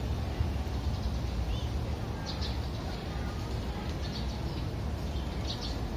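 Small birds giving a few short, high chirps, spaced about a second or two apart, over a steady low background rumble.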